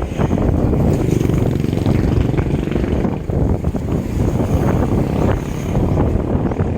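Wind buffeting the microphone during a ride, a loud, steady, low rush mixed with road noise.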